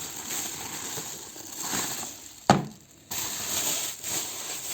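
Bubble wrap and plastic packaging rustling and crinkling as it is handled, with one sharp clack about halfway through.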